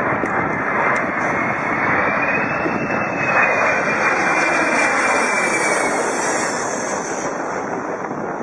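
Aircraft engines running loudly: a dense rush with a high whine that rises slightly over the first few seconds and falls away about six seconds in.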